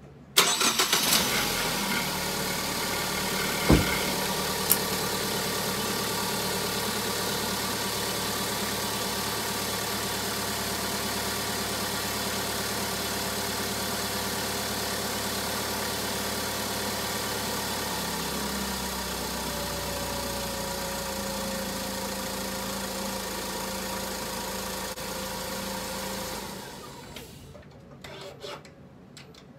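2012 Ford Focus engine starting about half a second in and then idling steadily, with a sharp knock about four seconds in and another a second later. Near the end the engine is switched off and the sound dies away, followed by a few faint clicks.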